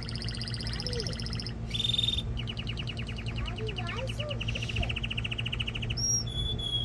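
Male canary singing a string of fast, rapidly repeated trills, one tour following another at a different pitch, then short repeated notes near the end. Under the song runs a steady low hum.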